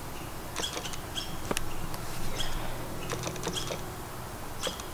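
A small songbird chirping over and over, short high calls coming about once a second. A single sharp click sounds about one and a half seconds in, over a low steady hum.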